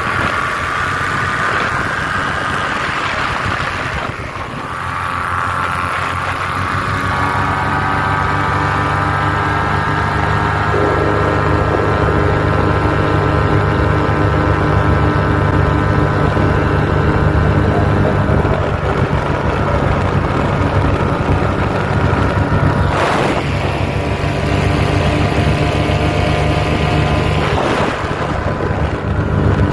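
Paramotor engine and propeller running steadily in flight. The engine note rises about four seconds in and then holds, with two short noise bursts near the end.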